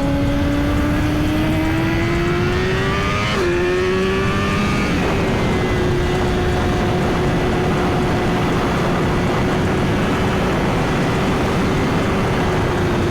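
Suzuki GSX-R1000 inline-four engine pulling up through the revs, shifting up about three and a half seconds in, pulling again briefly, then holding a steady cruise. Heavy wind rush lies over it all.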